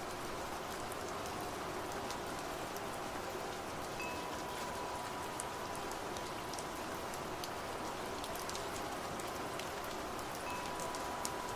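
Steady rain falling, with scattered individual drops ticking. A wind chime rings a clear single tone about four seconds in, dying away over a few seconds, and rings again near the end.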